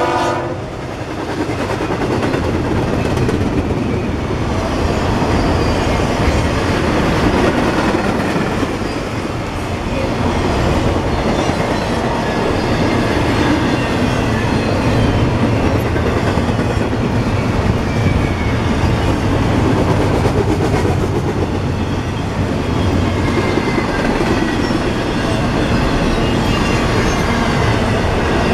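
CSX double-stack intermodal freight train's cars rolling past: a steady rumble and clatter of steel wheels on the rails, with faint high wheel squeals now and then. The locomotive horn cuts off just at the start.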